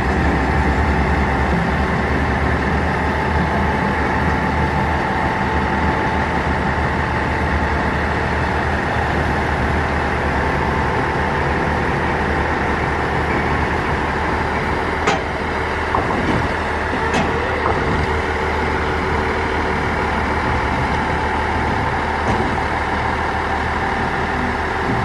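Diesel railcar's engine idling steadily, with a couple of short sharp clicks past the middle.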